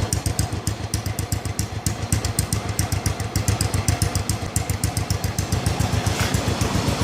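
Honda Supra Fit X motorcycle's single-cylinder four-stroke engine idling through an exhaust with a gutted muffler chamber, giving a steady, rapid, even exhaust pulse.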